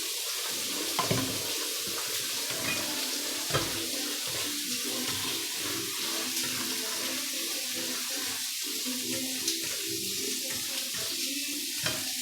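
Prawns and sauce sizzling steadily in a hot frying pan, a constant hiss, with a few brief knocks against the pan, the loudest about a second in and at about three and a half seconds.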